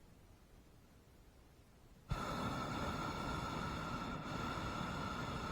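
Hot air balloon propane burner firing. It cuts in suddenly about two seconds in as a loud, steady rushing blast with a steady whistling tone in it.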